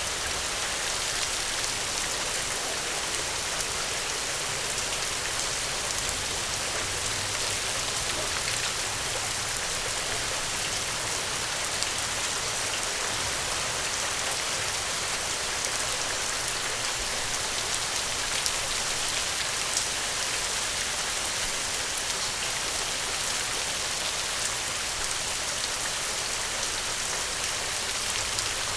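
Gentle rain falling steadily: a dense, even hiss of raindrops with many small individual drop ticks.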